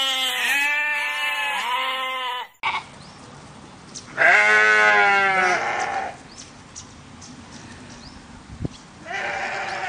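Sheep bleating: a quavering bleat at the start, a long loud bleat about four seconds in, and a shorter bleat near the end.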